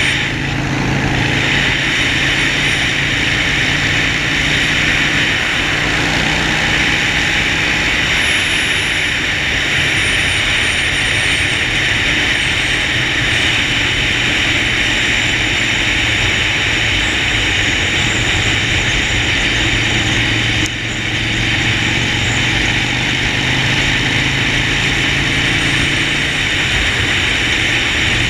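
Harley-Davidson Sportster Forty-Eight's air-cooled V-twin running steadily under way, with a constant hiss of wind and road noise over it. The level dips briefly about three-quarters of the way through.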